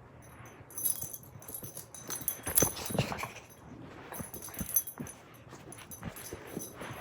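A pet dog moving about, with scattered knocks and scuffles that are loudest about two and a half to three seconds in.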